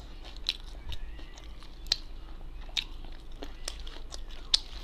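Close-up sounds of a person chewing food with the mouth, broken by several sharp, crisp clicks and crunches about once a second.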